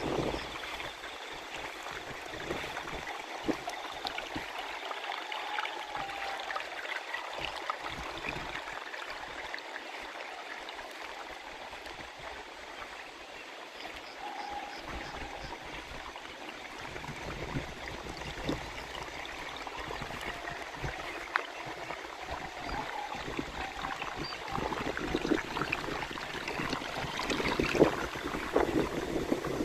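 Water flowing and trickling in a rice-paddy channel, a steady rushing that grows louder near the end, with a few faint short bird calls over it.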